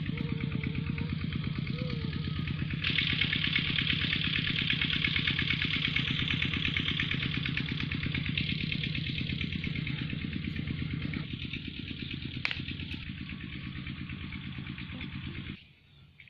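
Petter stationary diesel engine driving an irrigation water pump, running steadily with an even, rapid thudding; a brighter hiss joins about three seconds in. The sound stops abruptly near the end.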